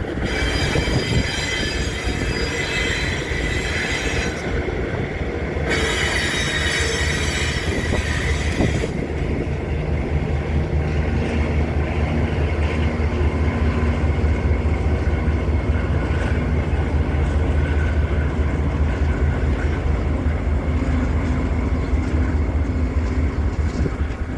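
Freight train pulling away behind two GE AC44i diesel-electric locomotives: for about the first nine seconds a high metallic wheel squeal, broken off briefly about four seconds in, then a steady low diesel drone from the locomotives that holds to the end.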